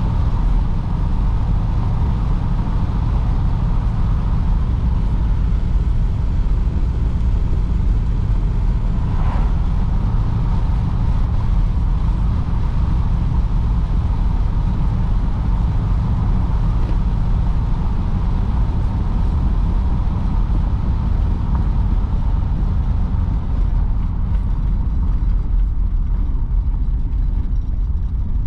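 A 1953 Oldsmobile Super 88 on the move: steady, even engine and road rumble.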